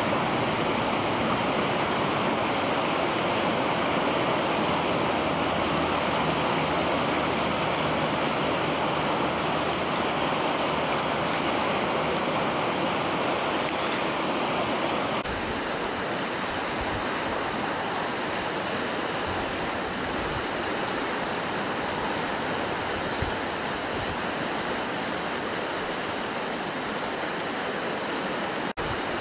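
Mountain river rushing steadily over rocks. About halfway through, the sound drops a little in level and its low rumble changes, and there is a very brief dropout near the end.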